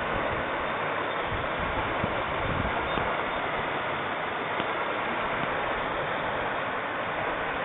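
Floodwater from a swollen river rushing fast, a steady, even noise with no let-up.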